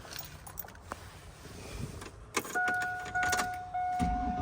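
Clicks as the key goes in, then a steady electronic warning tone from the Cadillac's dashboard sounds with short breaks. Near the end the starter begins cranking the engine.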